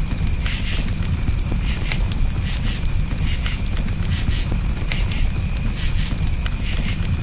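Campfire burning with a steady low rumble and scattered sharp crackles and pops, under crickets chirping in a high, evenly pulsing trill.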